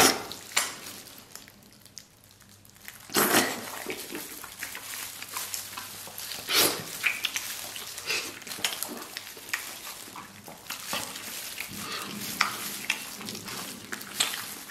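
Close-up wet chewing, smacking and sucking as a man gnaws soft tendon, fat and gelatin off a braised beef knuckle bone, with a few louder slurps about 3 and 6.5 seconds in.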